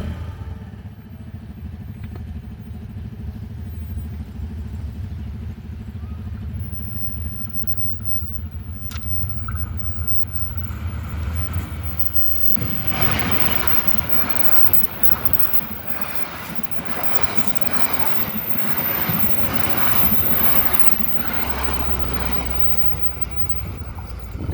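A train passing at speed. A low rumble builds for about twelve seconds; then the cars go by with a loud, rapid clatter of wheels over the rails for about ten seconds before it fades back to a rumble.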